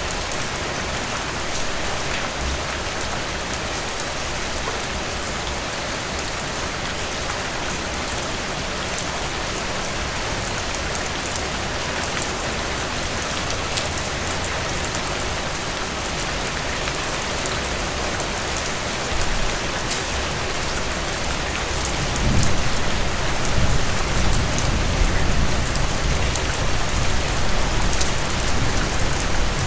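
Steady rainfall, a dense hiss with fine ticks of individual drops. About two-thirds of the way through, a low rumble comes in and the rain gets somewhat louder.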